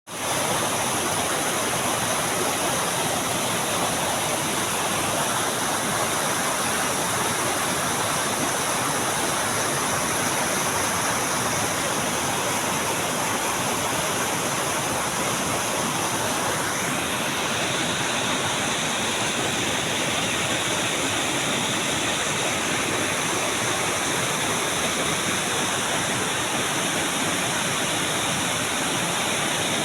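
River water rushing steadily, a constant full rush with no breaks.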